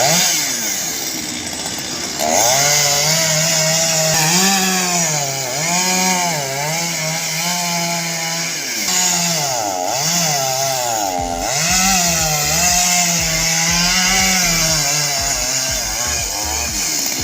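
Chainsaw engine running loud at high revs, its pitch dipping and climbing back again and again, the pattern of a chainsaw being revved and cutting.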